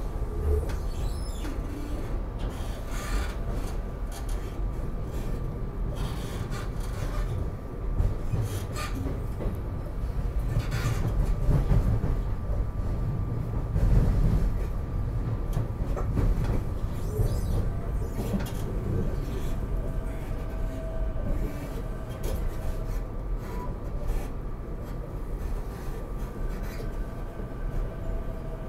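Inside a SEPTA Regional Rail passenger car on the move: a steady low rumble of wheels on track and running gear, swelling louder a few times, with a faint steady tone and occasional knocks and rattles.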